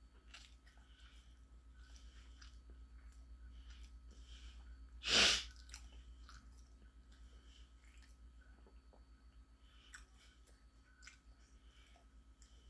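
Close-up chewing of a turkey and cheese sandwich, with small wet mouth clicks, over a steady low hum. About five seconds in there is one short, loud, breathy burst.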